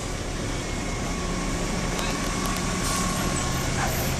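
Garbage truck's diesel engine running steadily, its hum stepping up slightly in pitch in the second half.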